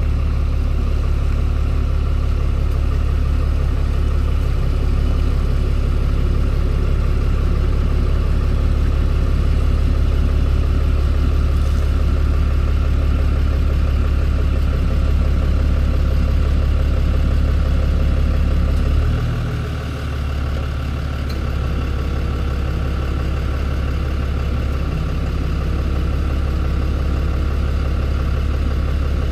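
Tow truck's engine running steadily with a low drone. About two-thirds of the way through, the engine note drops and then settles again.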